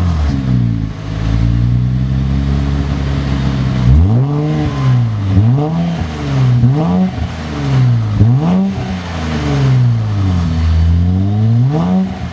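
Infiniti Q50's 3.0-litre twin-turbo V6 through a new Stillen cat-back exhaust, idling steadily for about four seconds, then revved in a string of about five short blips, each climbing in pitch and dropping back toward idle.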